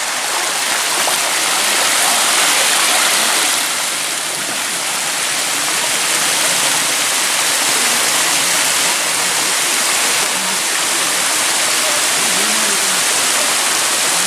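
Waterfall rushing: a loud, steady wash of falling and splashing water.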